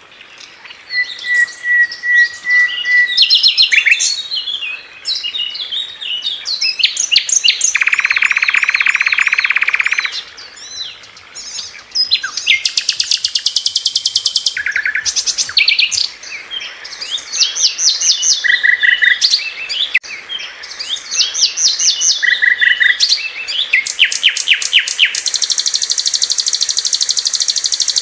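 Sikatan londo (a flycatcher) singing a varied, loud song of quick high chirps, rattling trills and a buzzy note. It ends in a long, fast, high trill held for the last few seconds.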